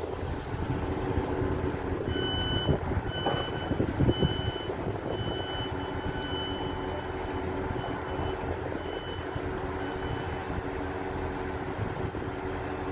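An electronic warning beeper sounding a string of short high beeps, about one and a half a second, starting about two seconds in and thinning out near the end, over a steady engine hum.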